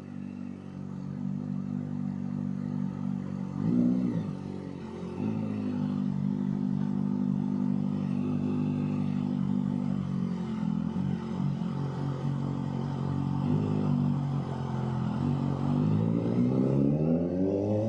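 Kawasaki ZX-4RR's inline-four engine through a Trick Star Ikazuchi slip-on exhaust, running steadily at low revs. There is a short blip of the throttle about four seconds in, and the revs climb smoothly near the end.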